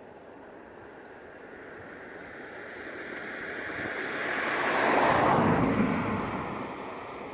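An aircraft flying past: a rushing noise that swells over about five seconds, peaks loudly, drops in pitch as it goes by, then fades away.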